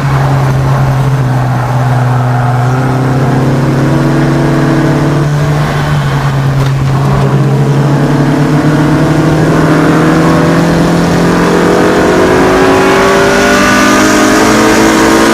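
Honda 2.0-litre four-cylinder race car engine on track, holding a steady, fairly low pitch for the first half, then rising gradually as the car accelerates through the second half.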